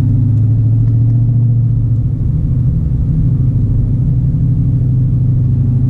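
Dodge Challenger Hellcat's supercharged 6.2-litre V8 running at low, steady revs while the car creeps along, a deep even drone.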